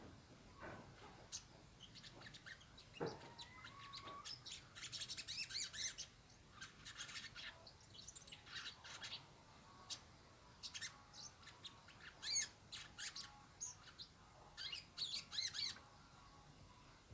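Small birds chirping and twittering in short bursts of high, rapid trills, with a lower call about three seconds in.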